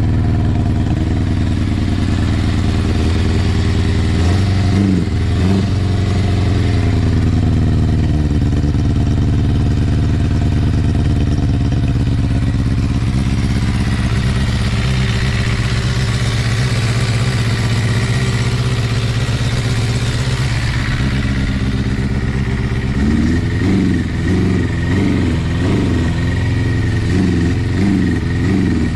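Kawasaki ZRX400 inline-four running through a Moriwaki ZERO titanium full exhaust, idling steadily with a brief throttle blip about four seconds in and a run of several quick blips over the last five seconds.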